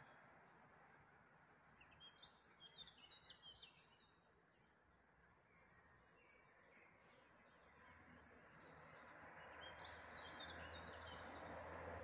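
Songbirds singing faintly in several short bursts of high chirps, over a soft steady hiss of background ambience.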